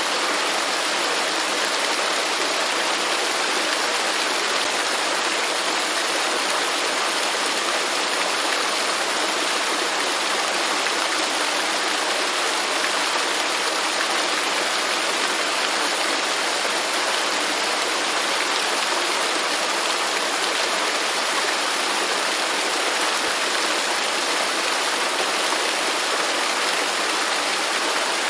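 Waterfall: a steady, unbroken rush of falling water, even and constant in level.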